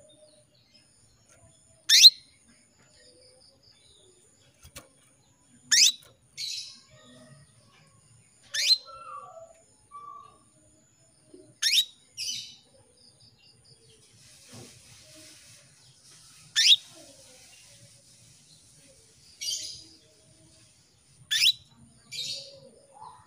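Female canary calling: a sharp, very high call that sweeps quickly down in pitch, given six times about three seconds apart, most followed by a shorter, softer note. This is a hen's call to a male canary, typical of a hen in breeding condition.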